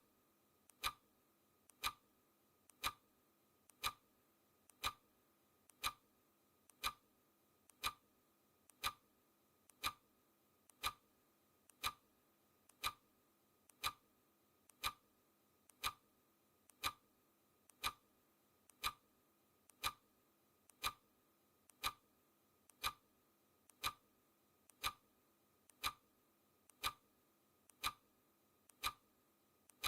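Clock-style ticking: a sharp tick about once a second, each with a fainter click between, steady and even.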